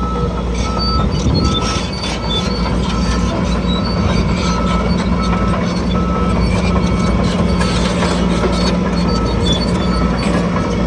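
Diesel engine of heavy earthmoving machinery running steadily, with a short, repeated high beep sounding over it.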